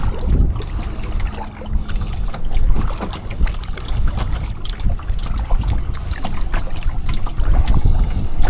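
Kayak paddling: water splashing and dripping off the paddle blade in irregular strokes, over a steady low wind rumble on the microphone.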